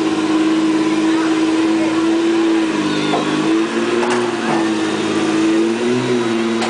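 Modified diesel pickup truck engine held at high revs under load while pulling the sled, a steady loud drone whose pitch wavers slightly.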